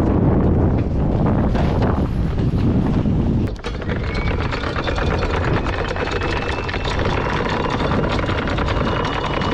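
Wind buffeting the microphone, then after a cut about three and a half seconds in, a boat's engine running steadily with a faint high whine over it.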